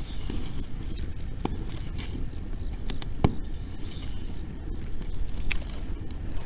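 Bonfire of dry wood crackling, with a few sharp pops, the loudest about three seconds in, over a steady low rumble.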